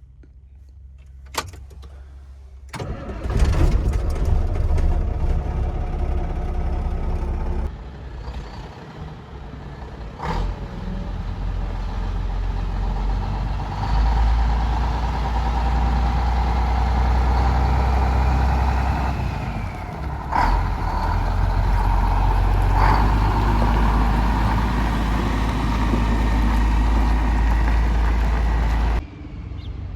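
A 1996 Mack CH613 semi truck's diesel engine starts after a click. It catches about three seconds in and runs steadily, getting louder around the middle, then stops abruptly just before the end.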